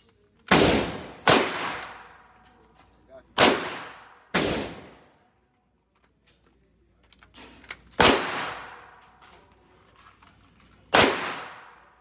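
Six single gunshots at uneven intervals, two close pairs early on, then two more several seconds apart. Each shot rings out with an echoing tail of about a second.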